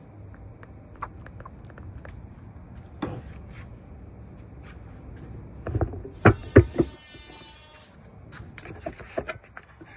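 Hand-cleaning sounds: scattered light clicks and knocks of a bottle and rag being handled, with a loud cluster of knocks about six seconds in and a hiss lasting under two seconds right after.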